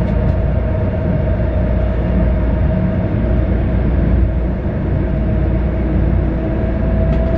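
Train running through a rail tunnel: a steady, loud rumble of the train on the track with a constant hum above it.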